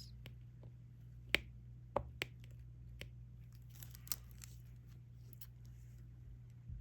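Scattered light clicks and taps from diamond painting: a drill pen setting small resin drills onto the adhesive canvas, about five sharp ticks spread over a few seconds, over a steady low hum.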